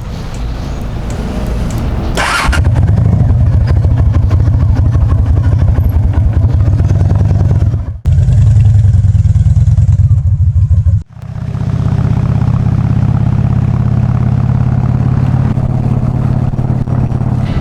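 Honda VT750DC's V-twin engine running with a steady, low exhaust note. It grows loud about two seconds in, just after a short burst of noise, and breaks off abruptly twice, about eight and eleven seconds in.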